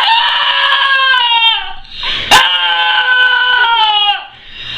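A dog howling: two long howls of about two seconds each, the pitch sagging at the end of each, with a sharp click between them.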